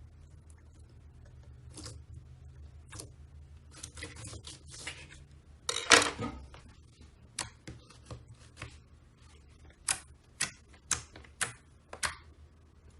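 Slime being squished, making sticky pops and clicks. They are scattered at first, with a louder, longer squelch about six seconds in, then a run of sharp pops about twice a second near the end.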